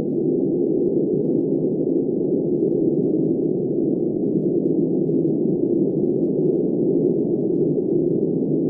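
Steady, muffled wind-like rushing noise, all low and middle with nothing high, holding an even level without gusts.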